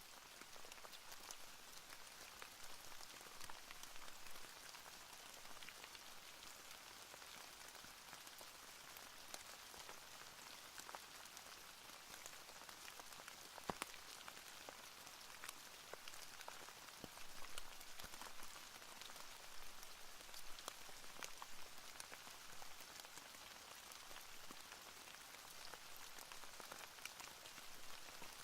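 Faint, steady rainfall: an even hiss of rain with scattered drop ticks, one sharper tick about fourteen seconds in.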